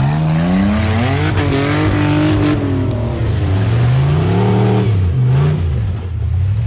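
Off-road rock crawler's engine revving hard under load: the revs climb steeply, hold, fall away, climb again, then drop with a short blip near the end.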